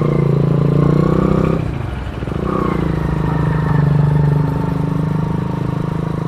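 Small single-cylinder motorcycle engine from a CD 100, fitted to a BMX, running under throttle. It eases off briefly about two seconds in, then picks up again and runs steadily.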